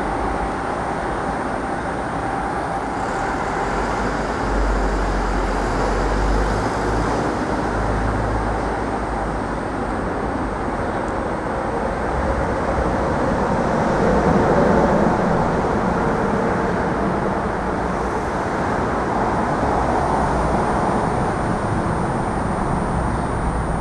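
Steady rumble of approaching electric trains, an Amtrak Acela Express trainset and a Metro-North M8 multiple unit, with a deeper low rumble a few seconds in and the noise swelling to its loudest about midway.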